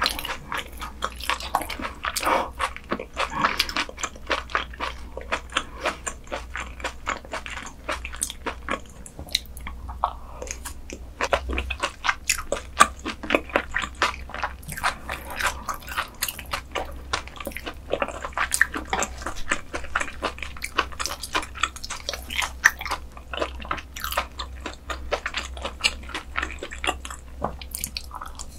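Close-miked chewing and crunching of crisp grilled beef intestines: a dense, unbroken run of sharp crunches and small clicks, bite after bite.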